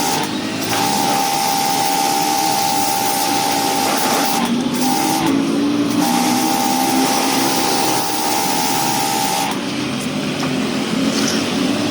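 Pressure washer spraying water: a loud steady hiss of spray, with a steady motor whine that cuts out briefly several times.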